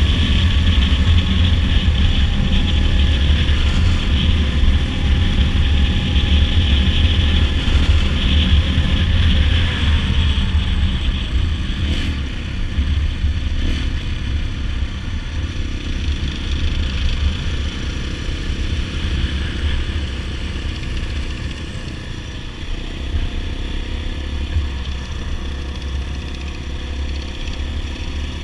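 Dirt bike engine running at road speed with heavy wind rumble on the helmet microphone. About ten seconds in, the engine pitch falls and it runs quieter for the rest of the stretch.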